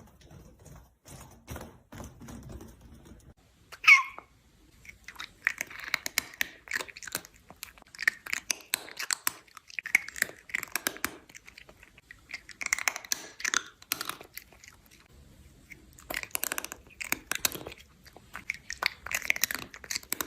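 Crunchy chewing in irregular bursts of crisp clicks, with one short squeak about four seconds in.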